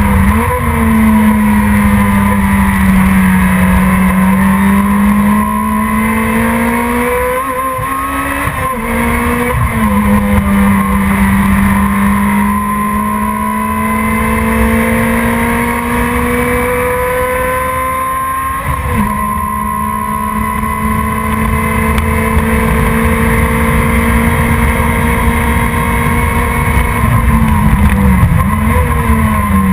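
Race car engine running hard under load, one steady engine note throughout, its pitch dropping sharply and recovering several times as it changes gear.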